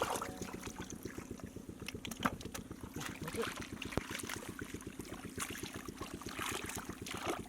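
A small engine running steadily with a fast, even beat, with water splashing and trickling.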